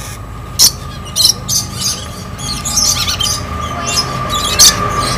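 Birds squawking and chirping in short, harsh calls, a quick string of separate cries scattered through, over a steady faint high tone.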